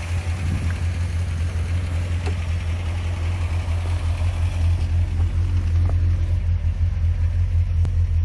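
Fiat 125p 1300's four-cylinder petrol engine idling steadily at low revs, circulating a diesel flush mixed into the old oil before the oil is drained.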